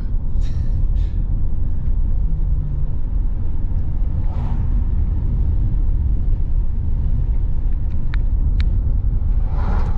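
Steady low road rumble of a car driving, heard from inside the cabin, with two short ticks about eight seconds in.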